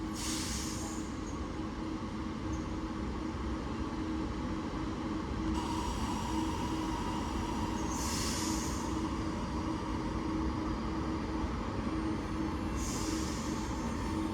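Class 397 electric multiple unit standing ready to depart, its equipment giving a steady hum over a low rumble. A higher hum joins about five seconds in, and there are three short hisses of air.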